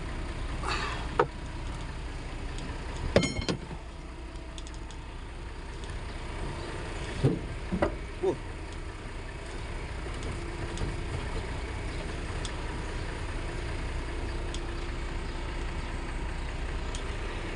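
Large truck's engine running with a steady low rumble, with a few short knocks and clanks about a second in, around three seconds in, and three more close together near eight seconds.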